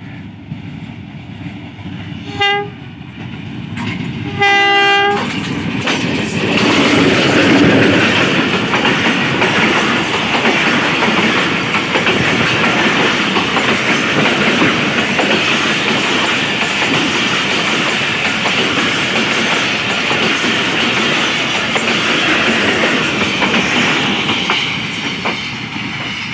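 Diesel locomotive horn sounding twice, a brief blast and then a longer one about two seconds later. Then the locomotive and its passenger coaches run close past with loud, steady wheel-on-rail clatter, easing near the end as the last coach goes by.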